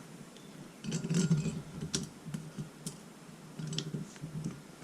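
Light clicks and muffled knocks of cylinder bolts being handled and oiled, with a few sharp metal ticks spaced about a second apart through the middle.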